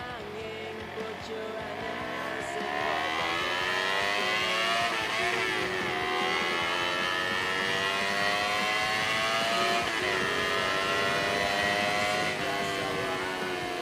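Honda CBR250RR motorcycle engine through a custom aftermarket exhaust, revving: the pitch climbs over the first few seconds and stays high, with sharp brief drops and recoveries about six and ten seconds in.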